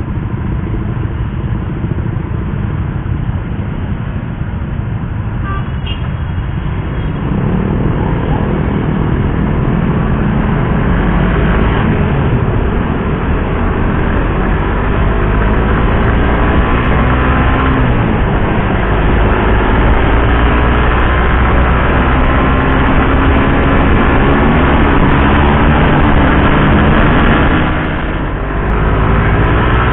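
Suzuki GSX-R150's single-cylinder four-stroke engine while riding: low and steady at first, then from about seven seconds in it revs up through the gears, the pitch climbing and dropping at each shift. A brief throttle-off dip comes near the end.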